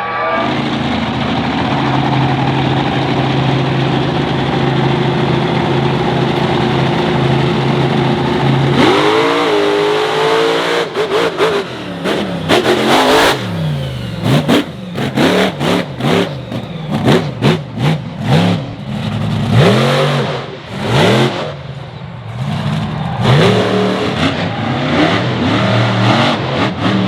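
Monster truck engine held at steady high revs for about nine seconds, then revved up and down in quick repeated blips, with sharp bangs between the revs.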